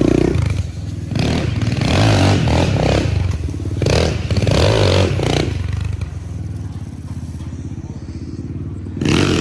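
Motorcycle engines running, with several louder bursts in the first half and another near the end.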